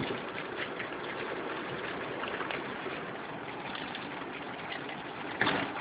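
Steady hiss of rain and tyres on a wet road, heard from inside a moving car, with faint patter of drops. A louder swell comes near the end.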